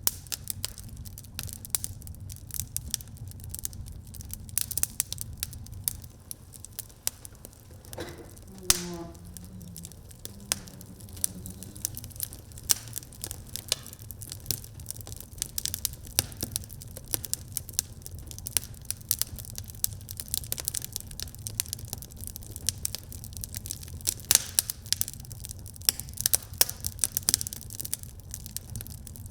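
Wood fire crackling in a fireplace: frequent sharp pops and snaps over a steady low rumble of burning, with one louder pop about nine seconds in.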